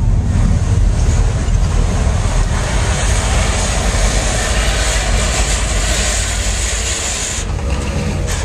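Engines of lowered show cars and pickups running as they drive slowly past, a steady, loud noise that holds throughout.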